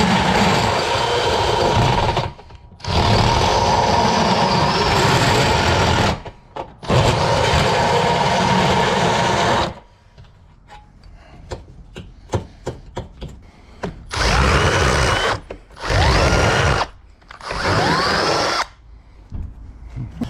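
Power drill working a bit into the bored hole of a steel door: three long runs of the motor under load, a few seconds of sharp clicking, then three short bursts with the motor winding up and down.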